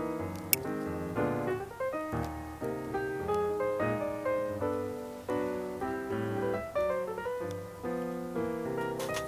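Background piano music, a steady run of notes. A brief sharp click sounds about half a second in.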